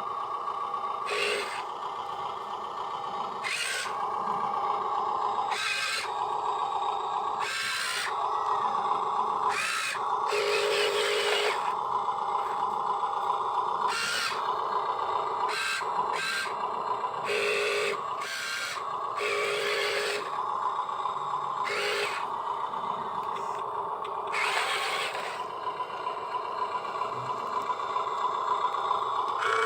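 Electric motors and gearboxes of radio-controlled construction models whining as they work, a steady whine broken by short louder bursts that start and stop every second or two.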